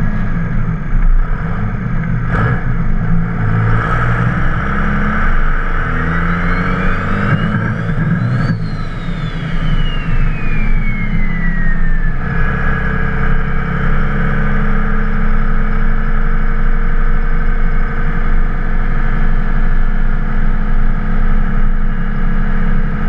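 Twin-turbo 24-valve Cummins diesel running. About six seconds in a turbo whistle climbs in pitch as it spools up and peaks with a sharp click, then winds back down over the next few seconds, leaving the engine running steadily.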